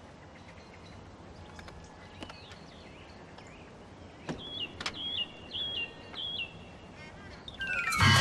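Quiet outdoor ambience with a bird singing, its short chirping phrase repeated four times in the middle, and a couple of light knocks. Near the end a falling glide of several tones begins and quickly grows loud.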